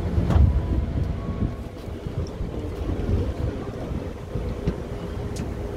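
Inside an electric commuter train moving slowly along a platform: a low, noisy rumble of the wheels and running gear. A faint steady hum comes in near the end.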